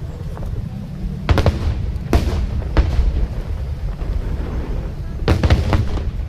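Aerial fireworks bursting: a series of sharp bangs over a continuous low rumble. The bangs come singly in the first half, then in a quick cluster of several about five seconds in.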